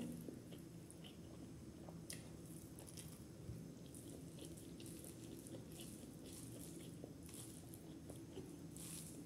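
Faint chewing and wet mouth clicks of a person eating biryani with his fingers, soft short smacks scattered through, over a low steady hum.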